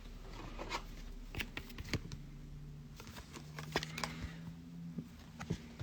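Trading cards being handled and sorted by hand: scattered soft clicks, taps and slides of cards, with a faint low hum through the middle.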